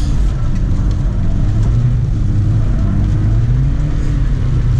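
BMW E46 320d's M47 four-cylinder turbo diesel under throttle during a drift, its pitch rising and falling as the revs swing up and down.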